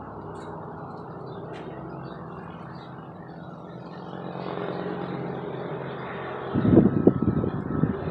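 Helicopter flying overhead, a steady low drone that grows louder about halfway through. Near the end, a burst of loud low rumbling bumps rises over it.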